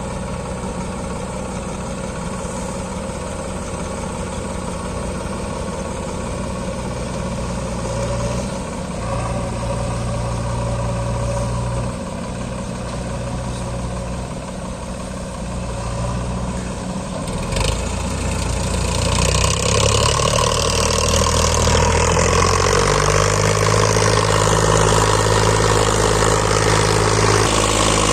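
Tractor diesel engine running steadily, then its note rising and growing louder about two-thirds of the way in as it speeds up.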